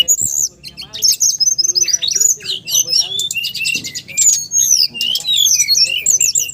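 Songbird singing loudly in a rapid, continuous run of high chirps, trills and sliding whistles, with a brief pause about half a second in.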